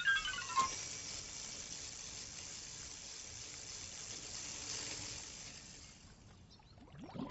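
Cartoon sound effect of something falling into water. A quick run of descending tones ends about half a second in, then a steady watery hiss fades away over about six seconds.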